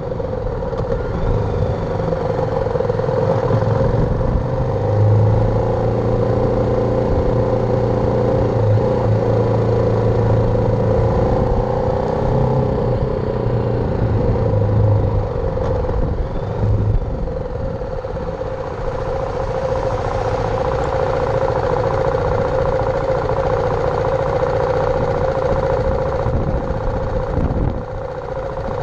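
BMW G310R's single-cylinder engine running under way, its pitch sliding up and down with engine speed in the first half, over a steady rushing noise.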